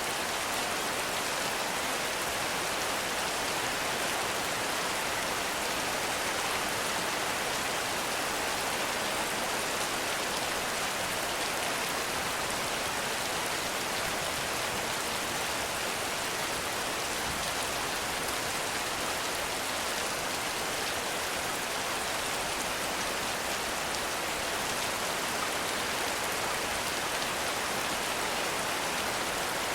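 Heavy rain falling steadily in a forest, a dense even hiss of countless drops with no let-up.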